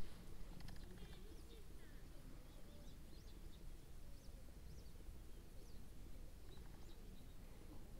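Small birds chirping faintly, short high notes about once a second, over a low steady outdoor rumble.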